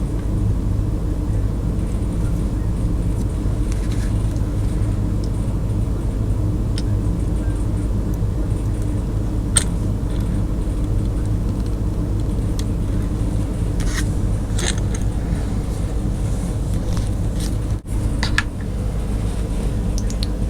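Steady low mechanical hum, with a few light clicks about halfway through and again near the end.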